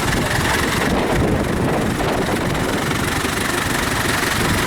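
Several vintage Ford and Fordson Dexta tractor engines idling together, a steady, even running with no revving.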